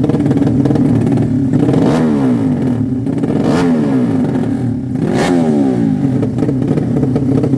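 Drag-race motorcycle engines running loudly, revving, with the pitch rising to a peak and falling away three times.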